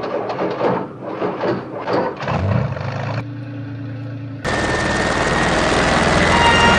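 Helicopter rotor chopping rapidly for about three seconds. After a brief low hum, a loud, steady rushing noise with a thin whine comes in and grows louder.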